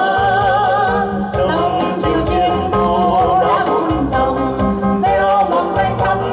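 A solo singer holding wavering, vibrato-laden notes over a backing track with a steady beat.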